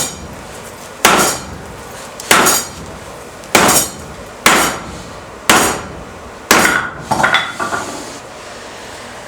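Blacksmith's hammer striking steel on an anvil: six heavy blows about a second apart, each ringing briefly, then a few lighter, quicker blows near the end.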